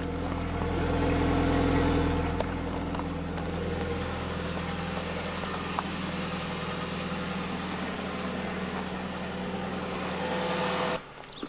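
1991 Chevy Beretta's engine idling steadily after a January cold start, heard from outside the car. The sound cuts off abruptly near the end.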